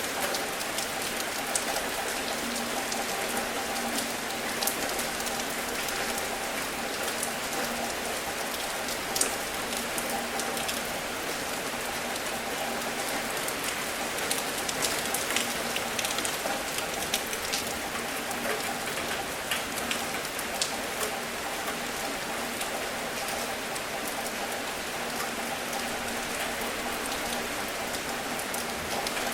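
Steady rain, an even hiss with many small, sharp drop hits scattered through it.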